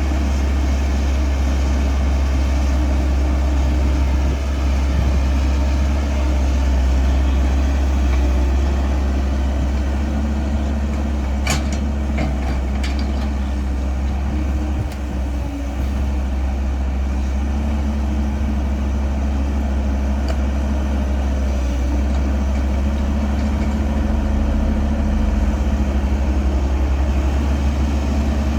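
Caterpillar 312 excavator's diesel engine running steadily with a deep drone. A few sharp knocks come near the middle.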